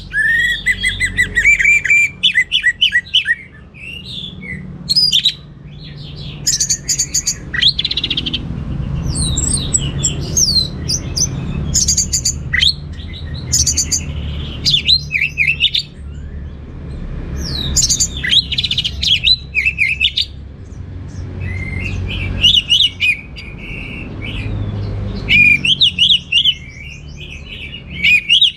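Orange-headed thrush singing a long, varied song of quick chirps and whistled phrases in bursts with short pauses, over a steady low rumble.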